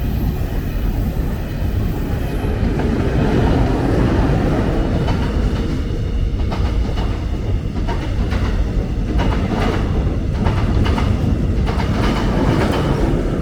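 A train passing: a loud steady rumble, with a quick run of wheel clicks over the rail joints from about five seconds in and a faint metallic squeal above it.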